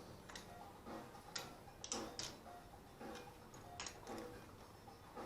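Faint, irregular light clicks and ticks from hand tools and metal parts being handled, about one or two a second, over faint background music.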